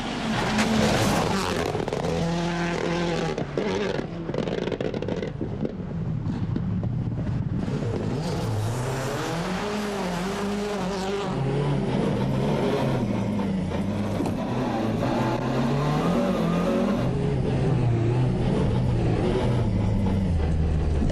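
Rally car engines revving hard, the pitch climbing and dropping again and again as the cars accelerate, shift and brake through corners.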